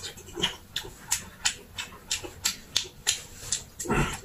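A person chewing a mouthful of braised pork belly with open-mouthed, wet smacking, about three smacks a second, and a louder, fuller mouth sound near the end.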